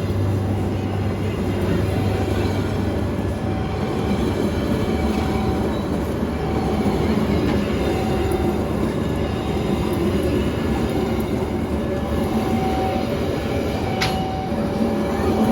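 A train running on the track, a steady rumble of wheels and cars with no let-up, with a faint short tone repeating about every second and a half and a sharp click near the end.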